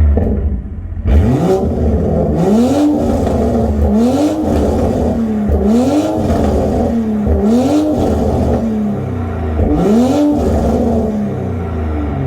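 2022 Toyota GR Supra's turbocharged engine, fitted with a Magnaflow Xmod exhaust and catted downpipe, blipped repeatedly. Each short rev rises and falls back, about one every second and a half, over a steady idle.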